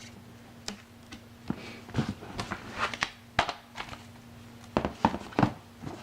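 Handling noise from a children's sound book: an irregular string of clicks, knocks and short rustles, as of the book's pages being turned and the book being handled.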